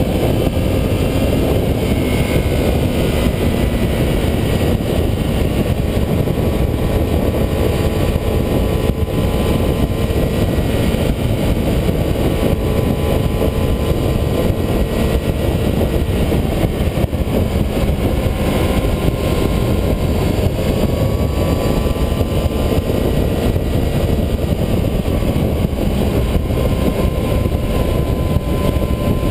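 Yamaha YZF R6 600 cc inline-four running at steady cruising speed, its pitch rising and falling gently with the throttle, under heavy wind noise on the onboard camera's microphone.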